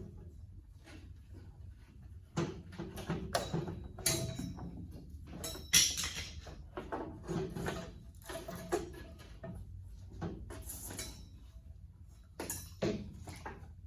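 Irregular clinks, knocks and scrapes of hand tools against metal tractor parts during a repair, some strikes ringing briefly. The loudest clank comes near the middle.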